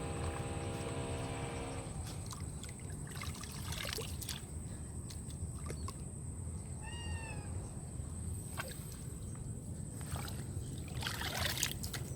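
Water being poured and splashed by hand over a steady low rumble, with scattered knocks and a louder splash near the end. A steady hum stops about two seconds in, and a short animal call is heard about seven seconds in.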